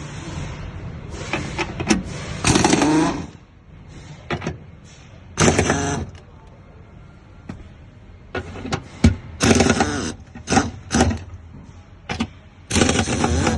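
A handheld power tool run in short bursts, about nine times, its motor pitch bending within some bursts, as bolts and screws are driven out.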